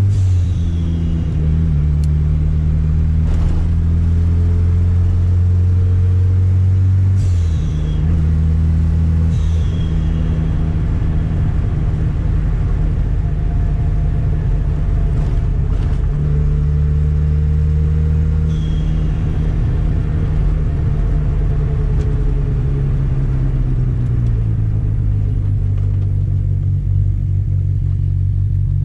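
Turbocharged Chevette four-cylinder engine running, its revs rising and settling several times, with a few short falling whooshes.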